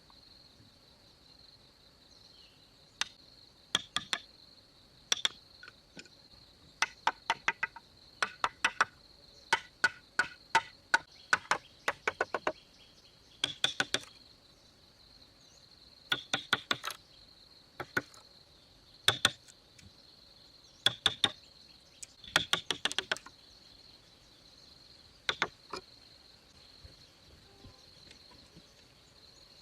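Hand tools striking wood: short runs of quick, sharp knocks, a few strikes at a time, with pauses of a second or more between runs. A steady high insect drone sounds underneath.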